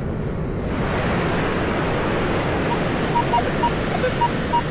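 Surf washing up, a rush of water that swells about half a second in. From past halfway, a Minelab Manticore metal detector gives short, repeated electronic beeps as it sounds off on a target still in the ground.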